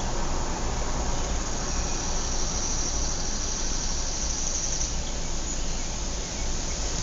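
Outdoor suburban ambience: a steady low rumble of distant traffic, with a high insect trill rising over it from about a second and a half in and fading out around five seconds.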